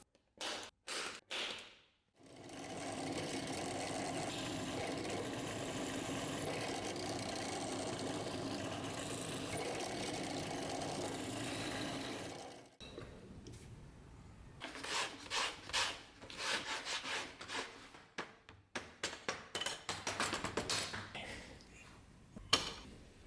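Workshop tool work: a few short clicks, then a small motor-driven tool runs steadily for about ten seconds and stops, followed by a run of short, quick hand-worked rubbing or scraping strokes.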